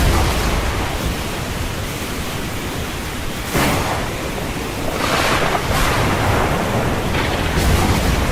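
Storm at sea: wind buffeting the microphone with a low rumble, over the steady rush of heavy seas. Waves break or spray hits hard about three and a half seconds in, and again around five seconds and near the end.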